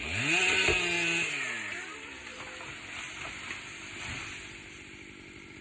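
Stihl chainsaw revved up hard for about a second, then dropping back to a steady idle.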